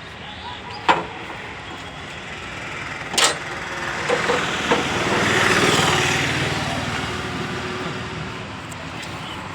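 Two sharp metallic knocks, about two seconds apart, from tool-on-metal work. Then a road vehicle passing by, its noise swelling and fading away over a few seconds.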